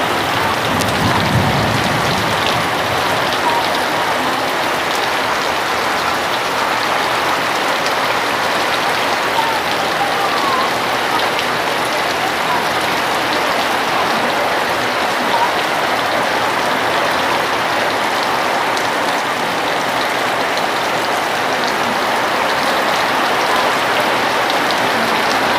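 Steady rain falling hard and hitting the ground and nearby surfaces, an even rushing hiss that holds through the whole stretch.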